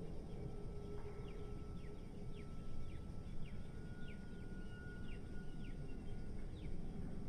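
Steady low rumble of city traffic, with a small bird giving a run of short, falling chirps about twice a second over it.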